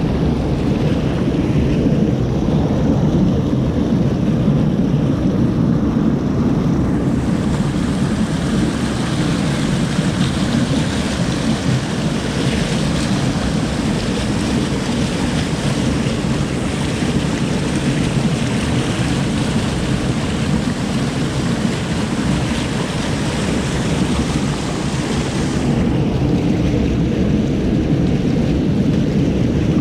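Rushing creek water, a loud, steady rush with a deep rumble, and a brighter hiss that comes in about a quarter of the way through and drops away near the end.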